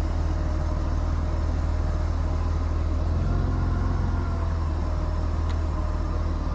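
Steady low rumble of a semi truck's engine and road noise heard inside the cab while it is moving.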